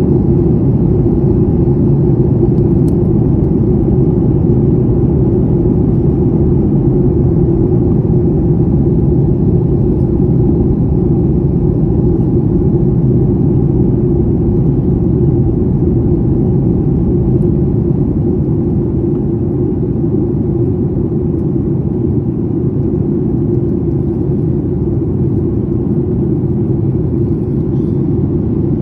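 Steady rumble of an airliner's cabin in flight: engine and airflow noise heard from inside the passenger cabin, loud and unchanging.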